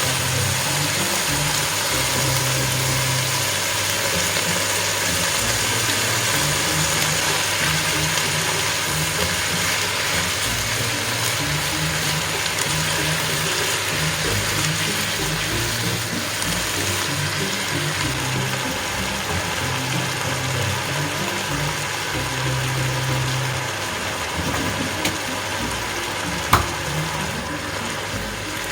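Noodles and ingredients sizzling in a hot frying pan: a steady hiss with a sharp click near the end. Background music runs underneath with a low, stepped bass line.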